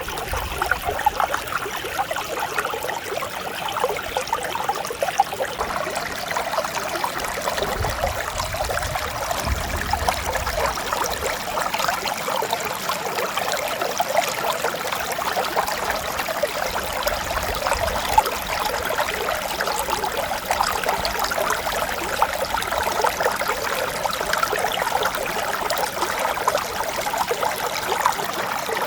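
Mountain stream flowing steadily, a continuous rushing and trickling of water.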